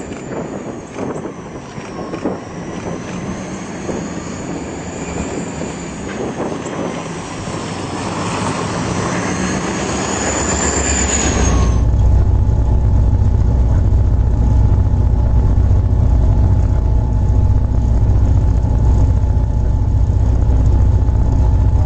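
Train running: a rushing noise with a high whine wavering up and down, which about halfway through gives way suddenly to a steady heavy low rumble.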